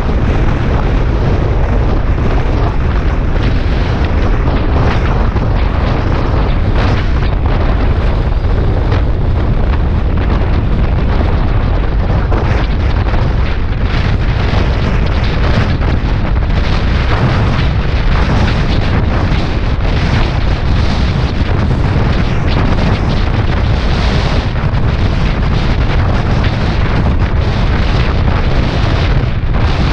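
Heavy, steady wind buffeting on the microphone of a Suzuki Bandit 650S at highway speed, with the bike's inline-four engine running steadily underneath.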